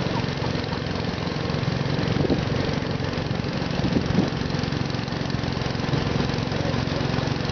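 Small garden tractor engine running steadily, without revving up or down.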